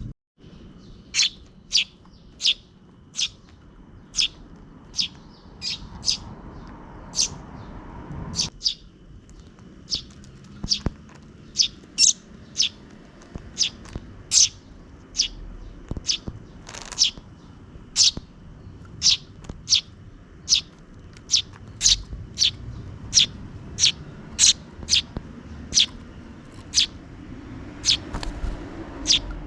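Sparrows chirping: a steady run of short, sharp, high chirps, about one or two a second.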